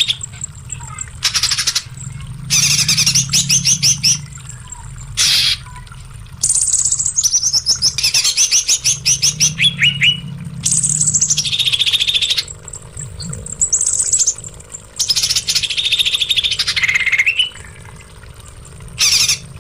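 A songbird singing loud, high-pitched phrases of fast trills and falling runs of notes, each a second to a few seconds long, with short pauses between.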